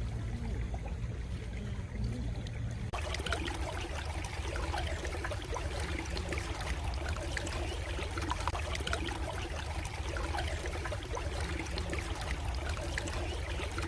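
A stream of water trickling and babbling steadily, growing fuller about three seconds in.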